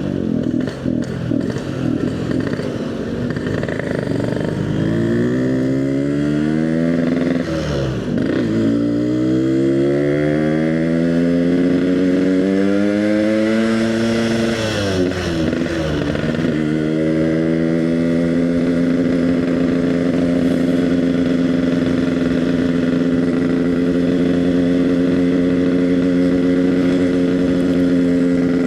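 Yamaha RX-King two-stroke single-cylinder motorcycle, an EnzyProject build, pulling away and accelerating through the gears. Its engine note climbs, drops at a gear change about 8 seconds in and again about 15 seconds in, then holds a steady pitch while cruising.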